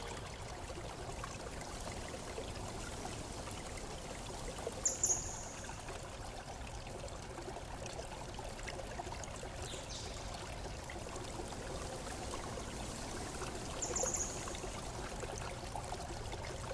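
Running water flowing and trickling steadily. Two brief high chirps cut in over it, about five seconds in and again near fourteen seconds.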